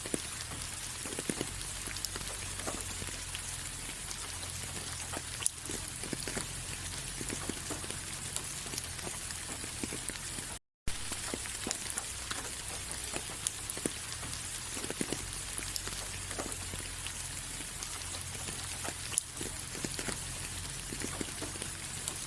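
Steady rain falling, with individual drops ticking sharply here and there. The sound cuts out for a split second about halfway through.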